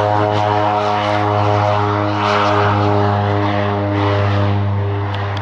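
Loganair turboprop airliner's propellers and engines at high power during its take-off run: a loud, steady, pitched drone with many even overtones, easing a little near the end.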